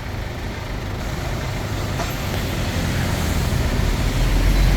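Bulldozer's diesel engine running under load, a steady low rumble that grows louder, its deep rumble strengthening near the end.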